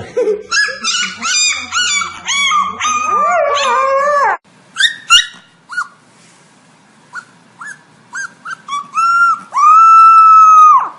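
Dog vocalizing in a run of short howling, whining calls that bend up and down in pitch, stopping suddenly about four seconds in. Later come a few short yips and then one long, steady, high howl near the end.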